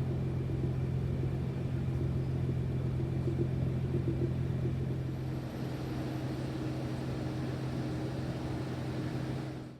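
A motor vehicle's engine running steadily at low revs, a constant low hum with no revving.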